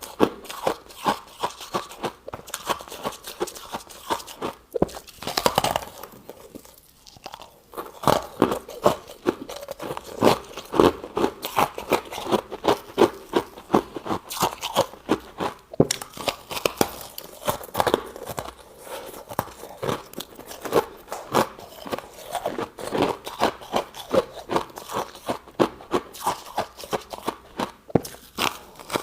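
Close-miked crunching and chewing of freezer frost: a dense run of sharp, crisp crunches, with a brief lull about six to seven seconds in.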